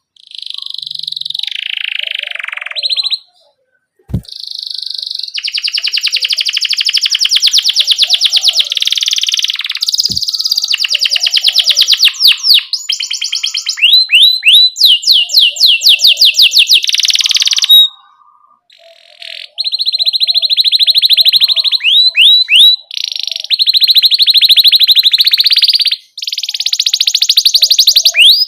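Domestic canary singing loudly: long runs of fast rolled trills alternating with quick sweeping 'cuit-cuit' chirps, broken by a few short pauses.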